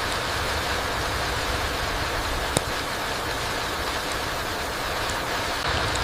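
Steady rain falling through trees onto a forest floor, an even hiss with a low rumble underneath. One sharp tick about two and a half seconds in.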